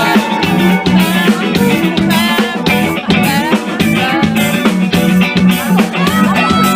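A live rock band playing loudly, with electric guitar over a steadily beating drum kit.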